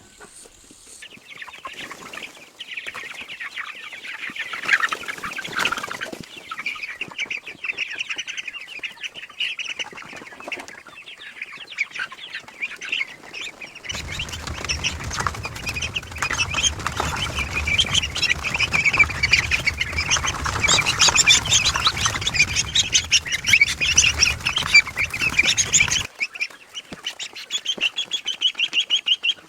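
A flock of domestic fowl calling, many short calls overlapping rapidly. A low rumble joins about fourteen seconds in and cuts off suddenly about twelve seconds later.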